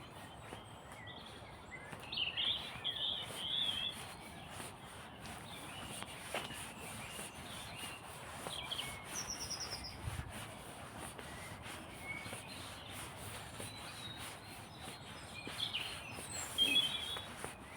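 Small songbirds calling in short chirps: a cluster about two seconds in, a brief high trill near the middle, and another cluster near the end, over a faint steady outdoor hiss.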